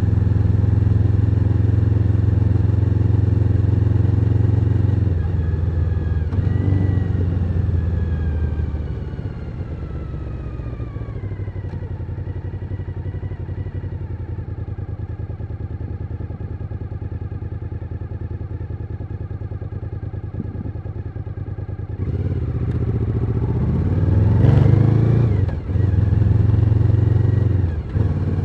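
Suzuki SV1000N's V-twin engine, at first running steadily under way. About five seconds in it slows with falling pitch, then it idles quietly for some twelve seconds. Near the end it revs up and pulls away, with brief dips at the gear changes.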